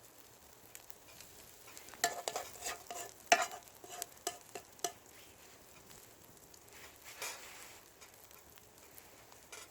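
Metal cookware being stirred and scraped: a quick run of sharp clinks with a ringing note for about three seconds, over faint frying sizzle.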